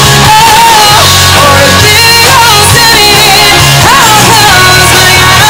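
Live country-pop band playing with a woman singing held, wavering notes between lyric lines, over guitar and bass.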